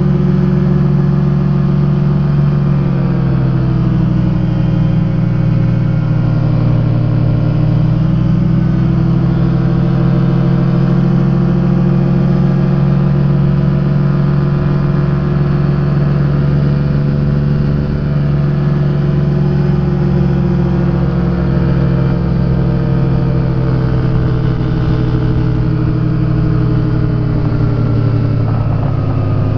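Rotax engine and propeller of a Quad City Challenger open-cockpit ultralight running in flight, a steady drone over a constant hiss. Its pitch eases down a few seconds in, comes up a little, and drops again near the end as the power is adjusted.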